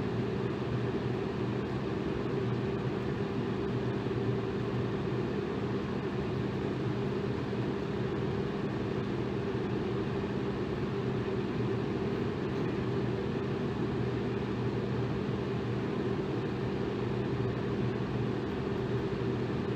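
Electric fan running steadily: an even whooshing of air with a low motor hum underneath.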